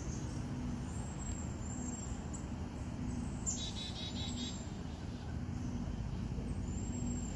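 Small birds chirping in short high calls, with a quick run of repeated notes about three and a half seconds in, over a steady low outdoor background noise.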